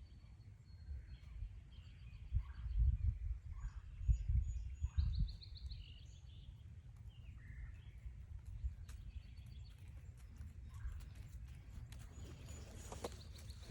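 Several wild birds calling, short repeated notes and one quick run of notes, over heavy low rumbling bumps on the microphone in the first half. Footsteps crunching on the forest trail come in near the end.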